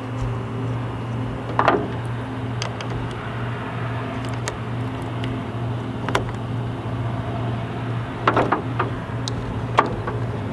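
A steady low mechanical hum, with a few sharp clicks and knocks about a second and a half to two seconds apart, and a quick cluster of them near the end.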